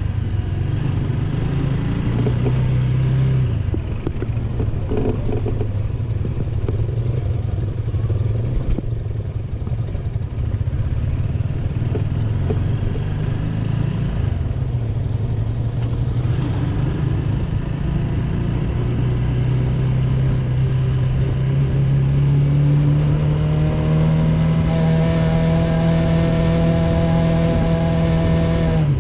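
AKT GP 180 motorcycle engine running while riding. In the last third its pitch climbs steadily as it accelerates, holds high for a few seconds, then drops off suddenly near the end.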